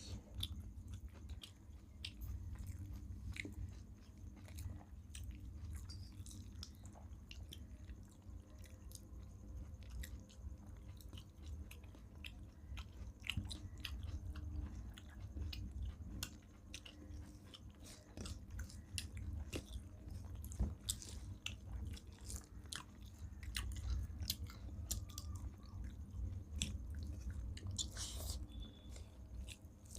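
Close-up chewing and wet mouth clicks of people eating rice with shukto, with scattered soft crunches, over a steady low hum.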